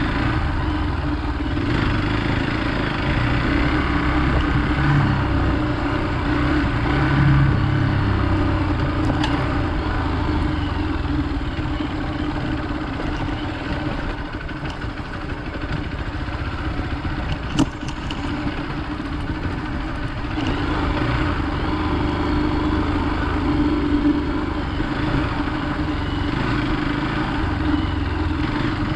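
Hero Xpulse 200 motorcycle's single-cylinder engine running steadily while being ridden off road, with a single sharp click a little past halfway.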